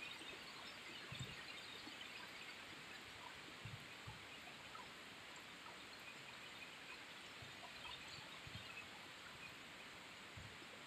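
Rain falling steadily on trees and foliage: a faint, even hiss flecked with tiny drop ticks. A few soft, low thumps come through it, about a second in, twice near four seconds, and again near the end.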